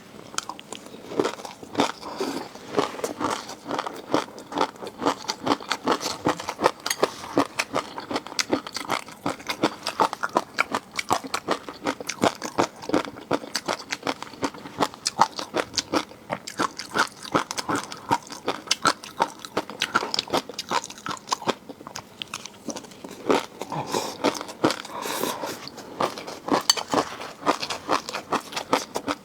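Close-miked eating of seafood: continuous crunching and chewing, several crisp clicks a second.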